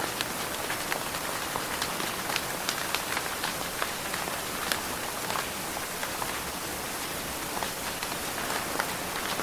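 Steady rain falling: a constant hiss with many sharp, separate drop strikes scattered through it.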